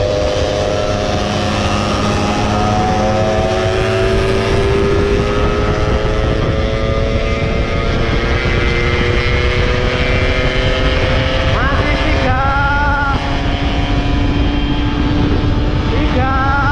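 Yamaha F1ZR's two-stroke single-cylinder engine pulling under way, its pitch climbing slowly as the bike gathers speed. It drops once about twelve seconds in and climbs again, under heavy wind noise on the microphone.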